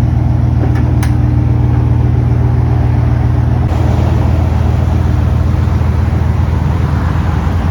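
Vehicle engine running steadily through an exhaust with the muffler deleted, a loud, deep drone.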